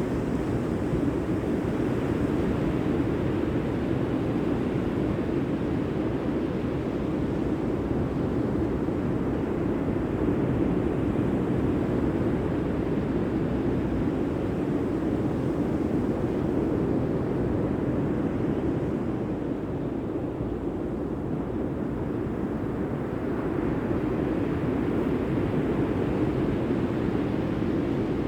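Steady rushing noise of sea and wind, even and unbroken, without distinct waves or other events standing out.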